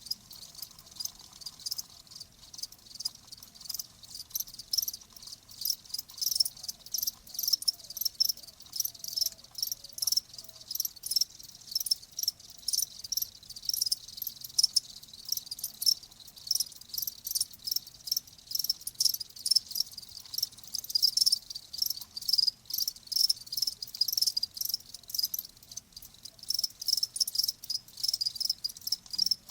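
Crickets chirping: an unbroken run of short, high chirps, several a second.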